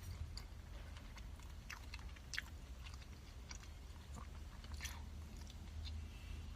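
A person chewing food close to the microphone, with soft mouth sounds and a few short crisp clicks.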